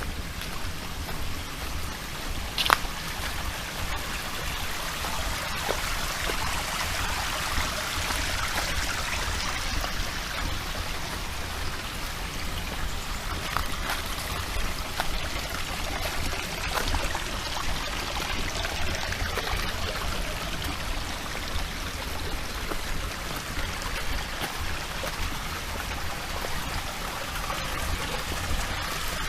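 Small mountain stream running and trickling, a steady rush of water that swells and eases a little, with one sharp click about three seconds in.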